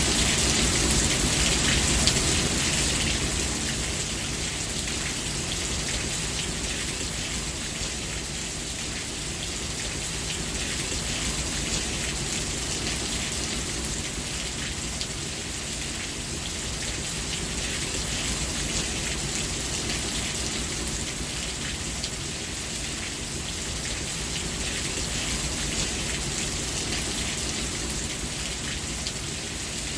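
Steady rain falling, with dense pattering drops on a surface, a little louder for the first few seconds.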